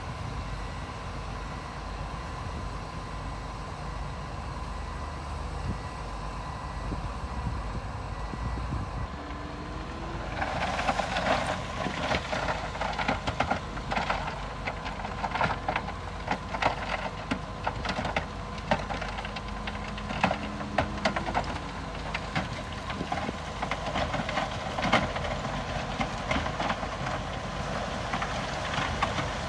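Heavy earthmoving machinery's diesel engine running steadily; about ten seconds in, a dense clatter of stone and metal begins and keeps on.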